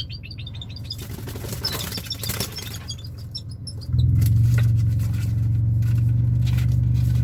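A bird calling in quick series of short, high repeated notes. About four seconds in, a steady low motor hum starts and is louder than the calls.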